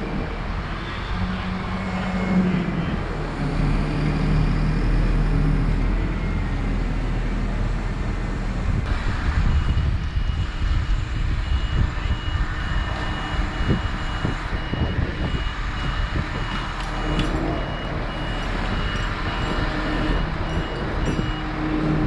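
A heavy truck or machine engine running steadily, with a back-up alarm beeping at a regular pace from about ten seconds in until near the end.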